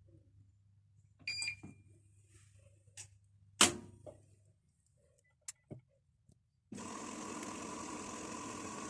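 Automatic washing machine: a short control-panel beep about a second in, then a sharp click, and after a few quiet seconds a steady rushing noise with a faint hum starts as the machine begins its cycle.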